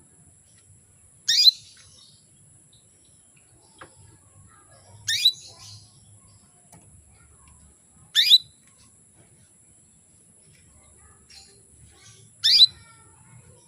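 Female canary giving four short, high chirping calls about three to four seconds apart: the calling of a hen canary to a male.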